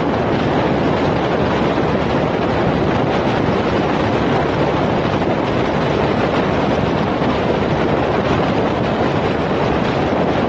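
Steady rushing noise of a moving vehicle with wind buffeting the camera's microphone, even and unbroken throughout.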